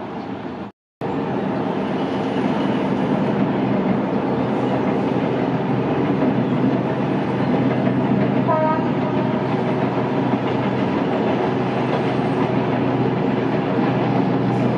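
Passenger train of the State Railway of Thailand rolling past, its coaches' wheels on the rails making a steady rumble. The sound cuts out briefly about a second in.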